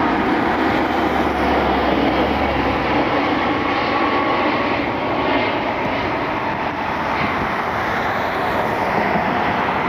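Jet airliner's engines, a loud steady rush that eases off slightly past the middle.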